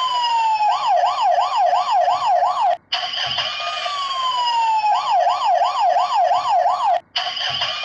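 Emergency-vehicle siren sound, electronic and looped: a slow falling wail followed by a fast up-and-down yelp of about three cycles a second. The cycle repeats with a brief break about every four seconds.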